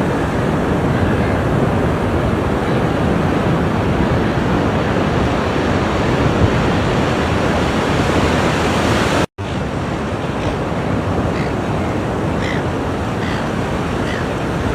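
Ocean surf washing steadily on a shore. About nine seconds in, the sound cuts out for a split second, and after that a few faint short high chirps sit above the surf.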